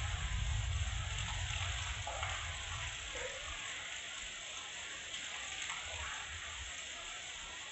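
Heavy rain falling steadily as an even hiss. Under it, a low rumble dies away about three and a half seconds in and briefly returns faintly near the end.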